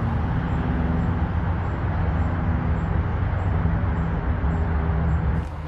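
Steady drone of road traffic with a low engine hum, stopping abruptly near the end.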